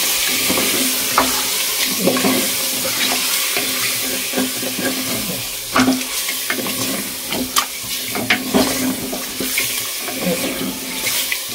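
Chicken pieces with yogurt and spice masala sizzling as they are fried in an aluminium pressure cooker, with a steady hiss. A wooden spatula stirring them scrapes and knocks against the pot now and then.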